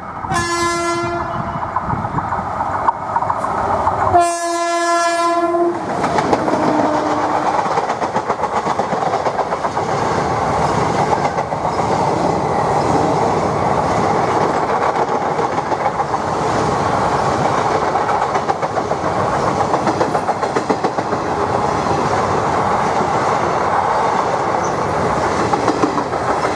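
WAP-5 electric locomotive's horn sounding twice, a short blast and then a longer one about four seconds in. After that the express's coaches pass close by with a steady noise of wheels clattering over the rails.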